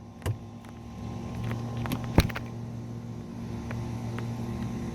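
Scattered sharp clicks and knocks from objects being handled, the loudest about two seconds in, over a low steady hum.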